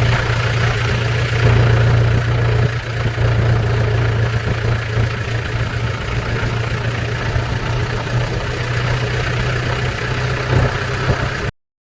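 Tractor diesel engine running steadily with a deep, even hum. The sound cuts out abruptly for a moment near the end.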